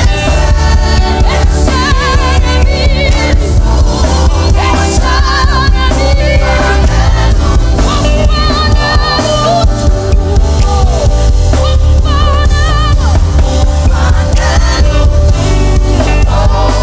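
Gospel worship song: voices singing with vibrato over a band with a strong, steady bass.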